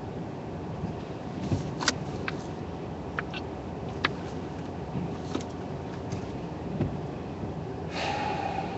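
Car interior road noise: a steady low rumble of the car driving on snowy roads, with a scattering of sharp clicks in the middle and a louder rushing hiss near the end.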